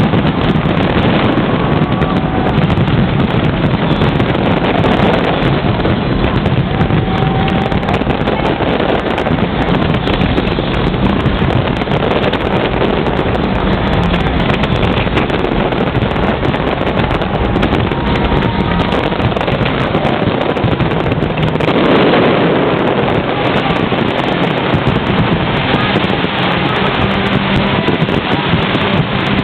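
Fireworks display going off continuously, a dense run of bangs and crackle that blends into a steady loud rumble, with wind buffeting the microphone.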